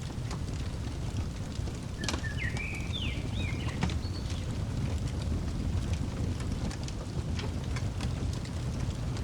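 Wood fire crackling, with scattered sharp pops over a steady low rumble. A small bird sings a short chirping phrase about two seconds in.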